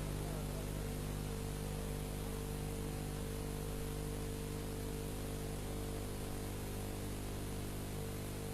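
Steady electrical hum with a set of low, even tones under a constant hiss, from the sound system and recording chain with no voice on it.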